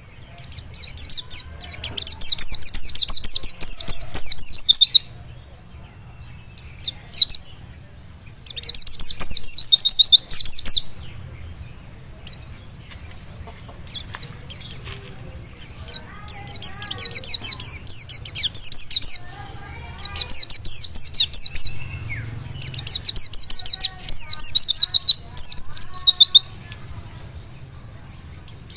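White-eye (pleci) singing a wild-type song: bursts of rapid, high-pitched chattering trills, each phrase lasting one to four seconds, with short pauses between phrases.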